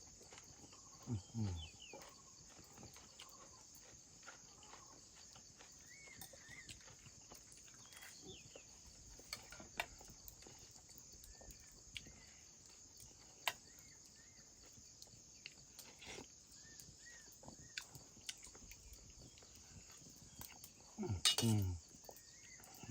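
Steady, high insect chorus with faint bird chirps, broken twice by a short animal call that falls in pitch: once about a second in and again near the end.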